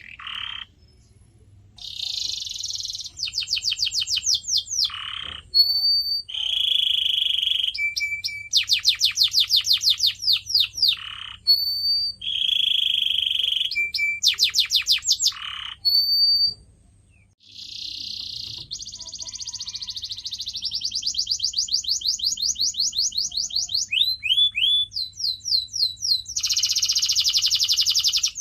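Domestic canary singing a long, varied song: fast trills of repeated sweeping notes alternating with buzzy rolls and short clear whistles, with brief pauses about a second in and again past the middle.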